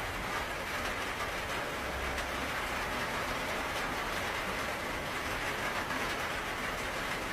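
Steady rainfall: an even hiss with faint scattered drop taps and a low rumble underneath.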